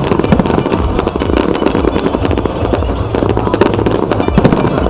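Aerial fireworks in a dense barrage: many shells bursting and crackling in rapid, overlapping succession, with no break.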